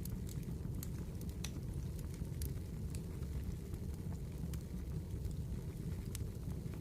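Campfire burning: wood crackling with scattered sharp pops, several a second, over a steady low rumble.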